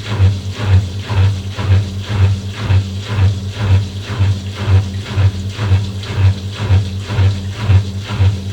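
Washing machine running mid-cycle: a steady low motor hum with a regular swish of water and laundry in the turning drum, about twice a second.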